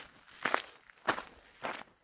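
Footsteps of a hiker walking on a trail, an even pace of about one crunching step every 0.6 seconds, three steps in all.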